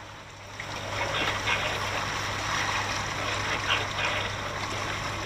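Water splashing and trickling, over a steady low hum.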